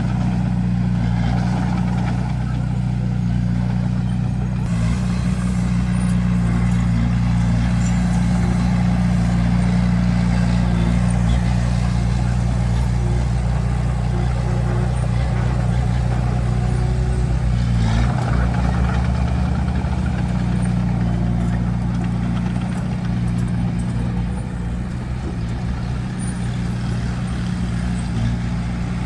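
Diesel engine of a heavy construction machine running steadily at a constant speed, a deep, even hum with little change in pitch.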